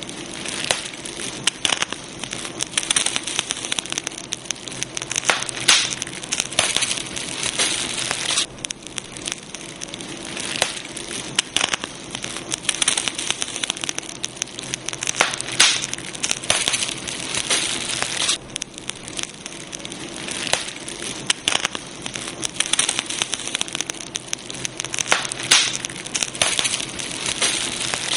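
Campfire burning, crackling steadily with frequent irregular sharp pops and snaps over a soft hiss.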